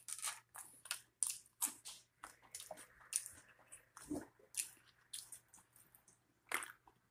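A person chewing food close to the microphone: an irregular string of short crunches and mouth smacks, a few a second.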